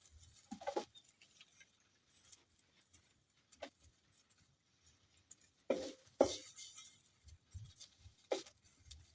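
A few separate light knocks and clicks against a quiet background, with the loudest pair a little past the middle.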